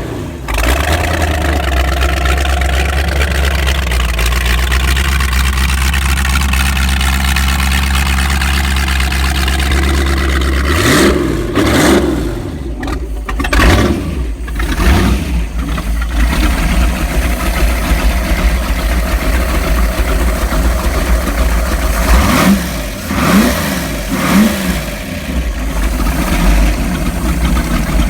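Ford 427 high-rise big-block V8 boat engine running steadily, then blipped several times about eleven seconds in, each rev rising and falling back, with a few more quick revs later and the revs climbing again near the end.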